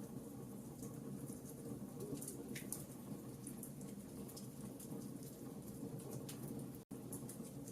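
Wood campfire burning: a steady low rush of flame with many small, irregular crackles and pops. The sound cuts out for an instant near the end.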